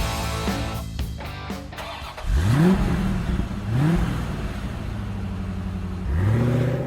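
A car engine revving up sharply three times, about two, four and six seconds in, the last rev held longer; rock guitar music ends over the first two seconds.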